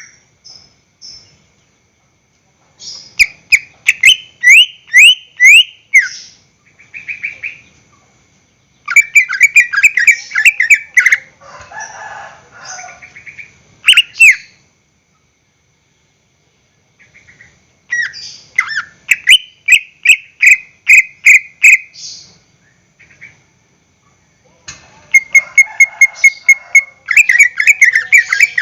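Greater green leafbird (cucak ijo) singing loud phrases of rapid, repeated sweeping whistled notes, each phrase a few seconds long and separated by short pauses, with a harsher, lower chattering passage about halfway through.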